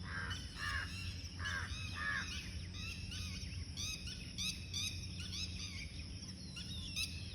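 Several birds of different kinds calling. Four stronger, lower calls come in the first two seconds, then quick high chirps follow in short runs. A steady low hum runs underneath.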